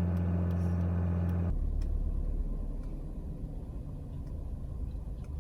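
A steady low hum with a clear pitch that cuts off abruptly about a second and a half in, followed by the low rumble of a BMW X3's engine idling, heard from the cabin while the car's electronic oil-level measurement runs.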